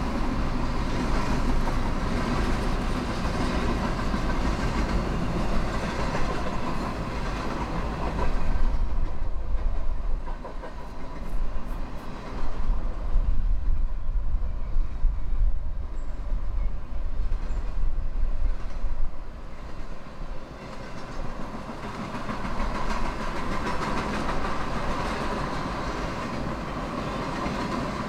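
Norfolk Southern intermodal freight train of container cars rolling past, a steady rumble of wheels on rail.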